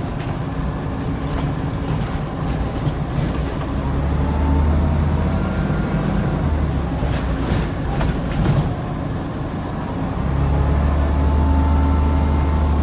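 Scania N94UD double-decker bus's 9-litre DC09 diesel engine heard from on board, pulling under load with a steady low drone that grows louder twice, about four seconds in and again about ten seconds in. A few sharp rattles sound in between.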